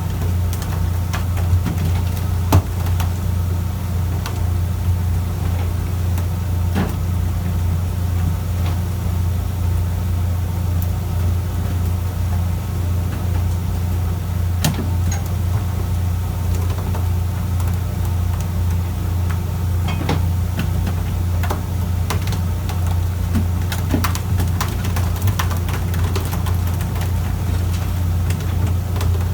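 A fishing boat's engine running steadily with a low, even hum, with scattered light clicks and knocks on board.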